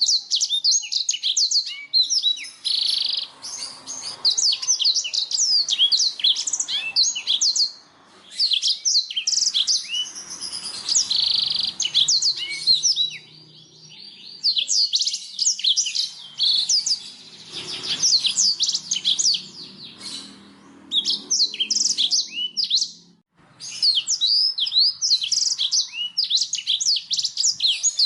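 Blackthroat (black-throated canary) singing: long phrases of rapid, varied high chirps and trills, broken by short pauses every few seconds.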